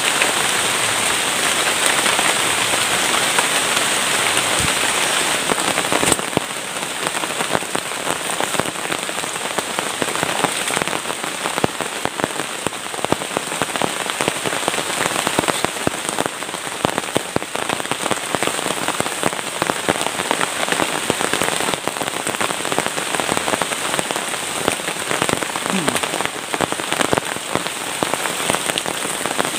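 Heavy tropical rain falling steadily on forest foliage, a dense hiss of drops. About six seconds in it changes to a slightly quieter patter of separate drops.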